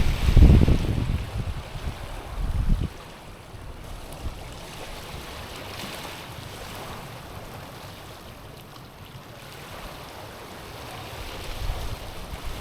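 Small waves washing over a stony shore as a steady hiss of water. Gusts of wind buffet the microphone for about the first three seconds and again near the end.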